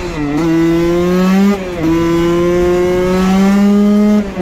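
Husqvarna WR 125 two-stroke single-cylinder engine, race-department tuned, pulling hard at high revs under full throttle. It is shifted up three times: right at the start, under two seconds in, and near the end. Each shift is a brief dip in pitch, and the pitch climbs again slowly between shifts.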